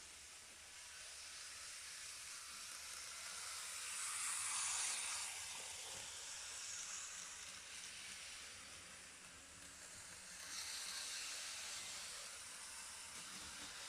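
Model railway train running on its track: a faint hissing whir that swells twice, about four to five seconds in and again about ten to eleven seconds in.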